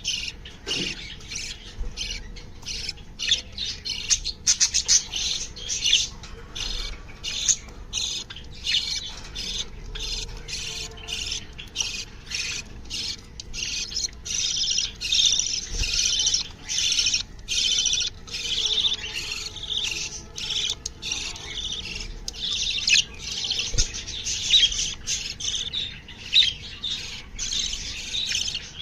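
Many small cage birds chirping and squawking together in a dense, unbroken chatter of short, high calls.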